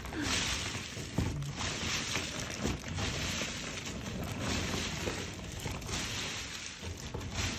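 Thousands of acorns pouring out of an opened wall cavity in a continuous rattling, clattering stream.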